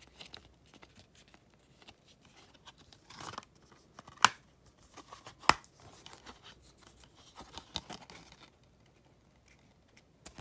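Blu-ray cases and cardboard slipcovers being handled: faint rustling and small clicks, with two sharp clicks of hard plastic about a second apart near the middle.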